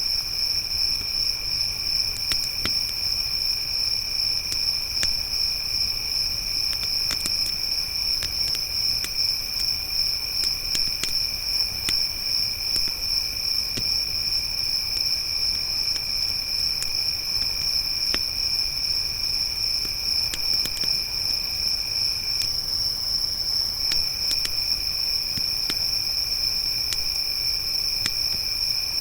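Crickets chirping in a continuous high trill, with a second, lower trill alongside that stops briefly about three-quarters of the way through. Scattered sharp pops and crackles of a wood campfire.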